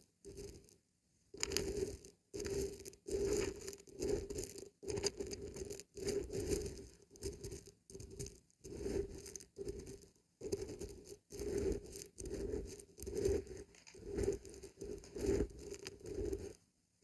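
Dried beans and barberries shaken in a container, rattling in quick repeated bursts of about one and a half shakes a second, starting about a second in.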